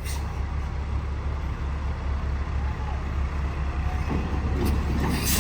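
Heavy diesel engine running steadily with a low drone, with a few knocks and rattles in the last second and a half.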